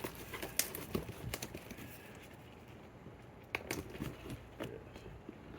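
Cardboard shipping box being handled and opened by hand: scattered light taps, clicks and scrapes of cardboard and packing, with a brief lull in the middle.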